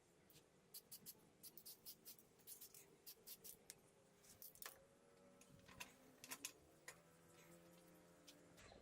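Faint, quick clicks and light taps of small hard parts being handled, coming thick for the first few seconds and then more sparsely.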